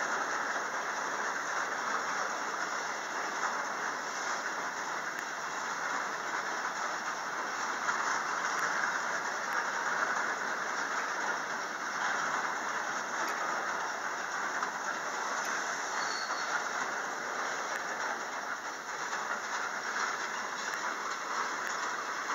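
Long freight train of container wagons rolling steadily past, its wheels making a continuous rushing noise on the rails with a steady high-pitched squeal over it.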